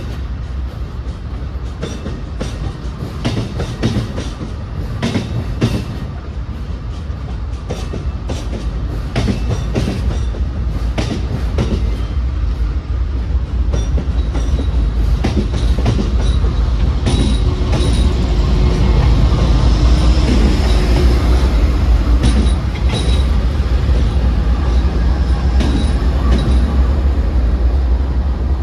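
Amtrak passenger train rolling past, its wheels clacking over rail joints with a strong low rumble that grows louder as the P42 Genesis diesel locomotive at the end of the train draws near. Faint wheel squeal comes in now and then in the second half.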